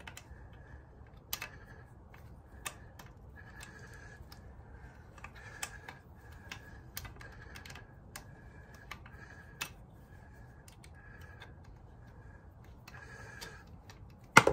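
Faint clicks and short, evenly repeated squeaks, about two a second, as a tool turns the drain plug out of an outboard motor's lower unit.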